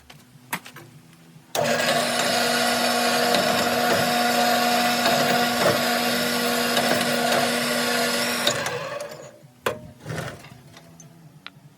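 A power tool motor running steadily for about seven seconds. It starts abruptly, then dies away near the end, followed by a few sharp metal knocks.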